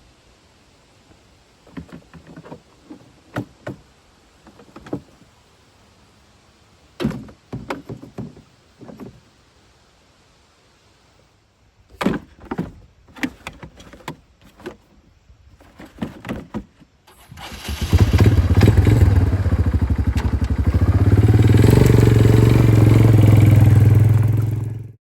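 A series of scattered knocks and clicks, then a small engine starts about two-thirds of the way in and runs steadily and loudly until it cuts off abruptly near the end.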